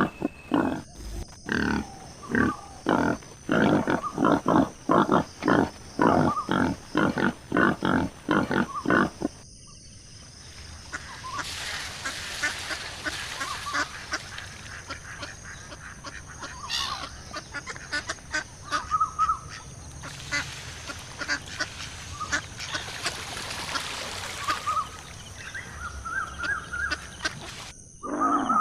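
Animal calls: a fast run of loud, repeated calls, about two a second, for roughly nine seconds. After an abrupt cut comes a quieter stretch of scattered short calls over a steady hiss.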